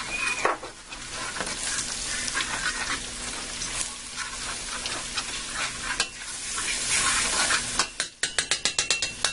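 Flour and fried onions sizzling in hot oil and beef drippings in a stainless steel pot as they are stirred together, the start of a roux for pan gravy. A quick run of about ten sharp clicks comes near the end.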